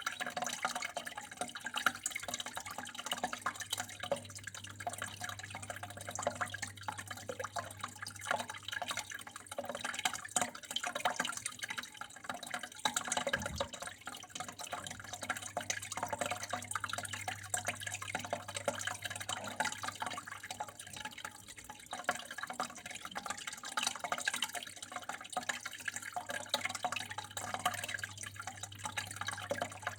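Water flowing and splashing steadily with constant dripping, over a low steady hum.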